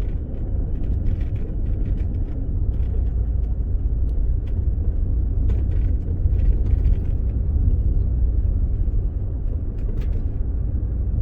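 Ford Expedition driving on a snowy road, heard from inside the cabin: a steady low rumble of engine and tyres, with scattered small clicks and ticks.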